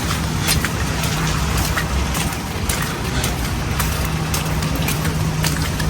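Outdoor street ambience: a steady hiss of noise with a low, steady hum that drops out briefly around the middle, and scattered sharp clicks throughout.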